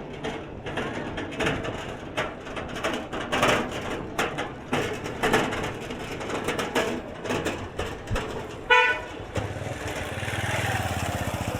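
Busy street traffic noise with a single short vehicle horn toot about three-quarters of the way through, followed by a vehicle engine running close by near the end.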